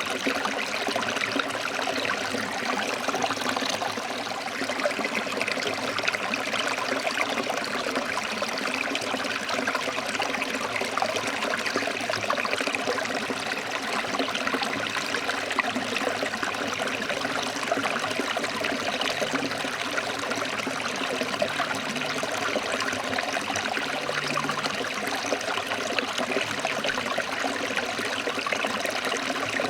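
Forest stream flowing over rocks: a steady rush of water with constant small splashing and trickling.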